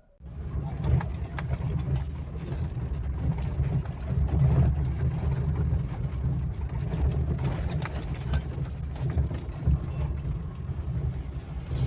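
An engine running steadily with a low rumble, with light rattling clicks over it.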